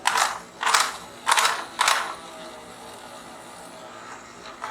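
Green plastic toy tour bus being handled: four short mechanical whirring rasps, like small gears turning, within about two seconds.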